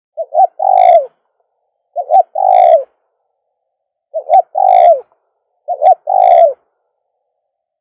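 Caged decoy spotted dove cooing: four calls about every two seconds, each two short notes followed by a longer coo.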